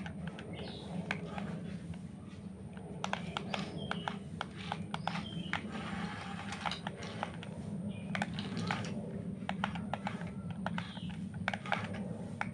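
Radio-controlled model excavator at work: a steady low hum from its small electric motor, with many irregular sharp clicks and taps. Faint bird chirps come through now and then.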